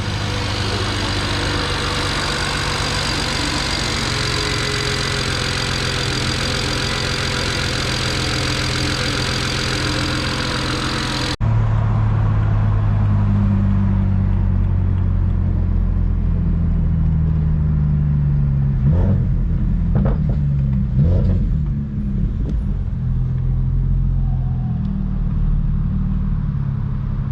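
Car engine running steadily. About 11 s in the sound cuts abruptly to another take, where the engine note rises and falls as the car revs and accelerates.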